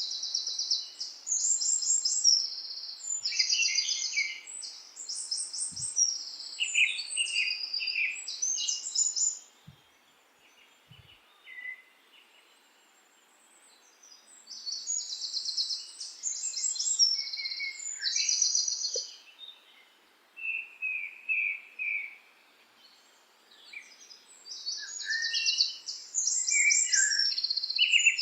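Songbirds singing in bouts of high, rapid trills and chirps, each bout lasting several seconds, with quiet pauses of a few seconds between them.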